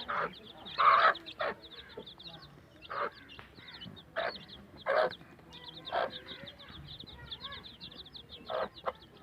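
Chicks peeping constantly in quick high chirps, with a hen clucking now and then, about eight short louder calls.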